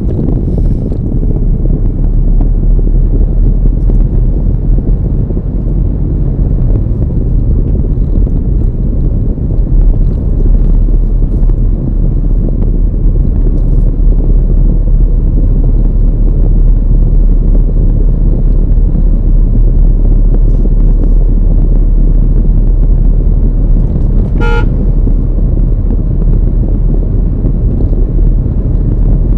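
Steady low rumble of a car driving on the road. A short horn toot sounds once near the end.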